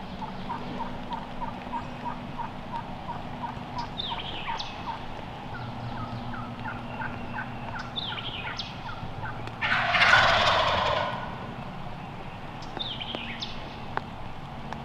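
Wild turkey gobbler gobbling three times, each gobble a quick falling rattle, over a steady run of turkey yelps at about three a second. A loud, rushing burst of noise lasts about a second, around ten seconds in.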